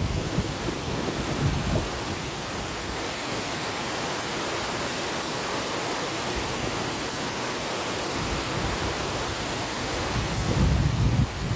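Steady rush of river water mixed with wind. Low rumbling gusts of wind come in near the start and again near the end.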